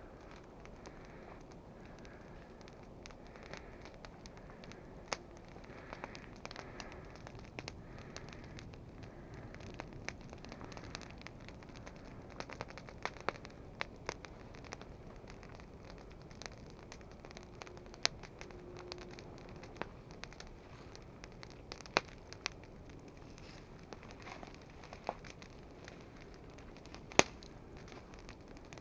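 Small wood campfire crackling, with irregular soft ticks, rustling of dry kindling and several sharp louder pops.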